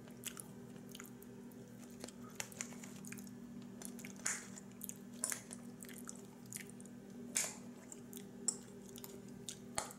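A man chewing soft food, mashed potatoes and gravy, with quiet wet mouth sounds and scattered small clicks, over a steady low hum.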